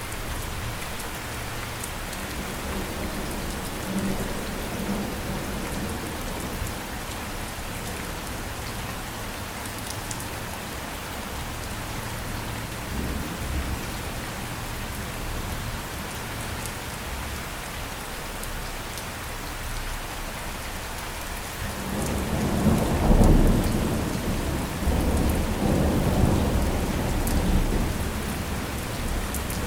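Steady rain falling, an even hiss, with a faint low rumble of thunder early on and a loud roll of thunder that builds about 22 seconds in, peaks a second later and rumbles away over several seconds.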